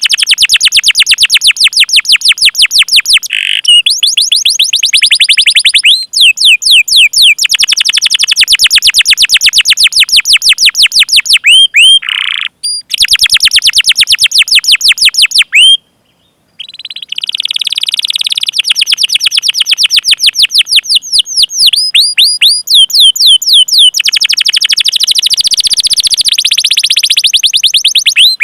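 Domestic canary singing long rolled phrases of rapidly repeated high chirps ('cuit cuit'), broken by short pauses and a brief silence a little past the middle.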